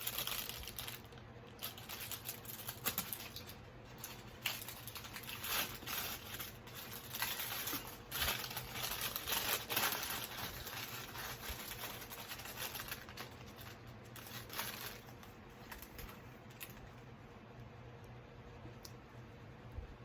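Crinkling and tearing of a plastic food wrapper being handled and opened, in quick irregular crackles that are busiest in the first half and thin out later.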